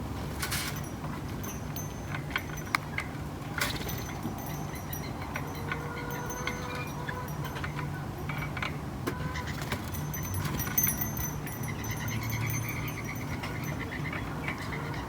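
Backyard ambience: a steady low hum of distant traffic, with scattered short bird chirps and a few sharp clicks and clinks.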